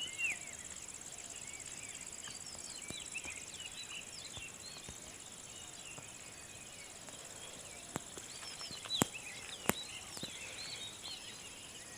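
Open farmland ambience: a steady high-pitched insect drone with many short bird chirps over it, and a few sharp clicks near the end.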